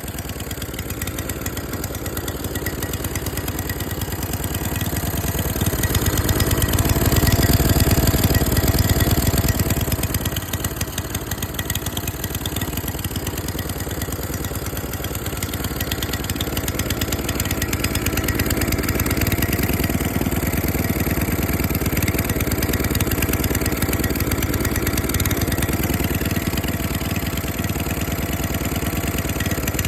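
Tecumseh small engine running, swelling louder between about six and ten seconds in, then settling back to an even run.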